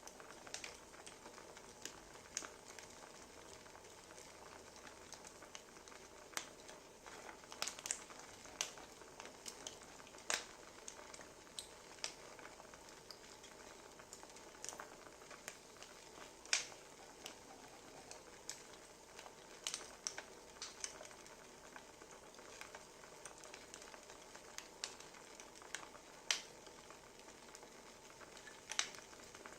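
Wood fire crackling: a steady soft hiss broken by irregular sharp pops and snaps, several a few seconds apart.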